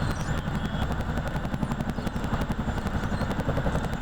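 RCAF Chinook tandem-rotor helicopter hovering: a steady, rapid chop of its rotor blades over the run of its turbine engines.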